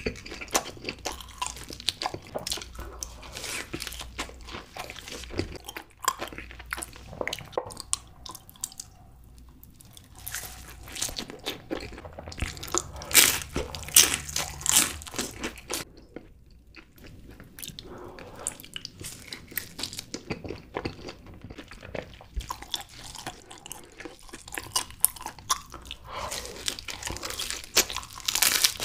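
Crunching bites and chewing of crisp thin-crust pizza, a dense run of crackly crunches. There are two short lulls, about a third of the way in and just past halfway, and the loudest crunches come shortly before the second lull.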